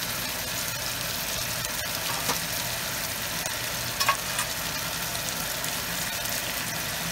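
Onions, tomatoes and ginger-garlic frying in oil in a pot, a steady sizzle over a low hum, with a couple of faint knocks about two and four seconds in.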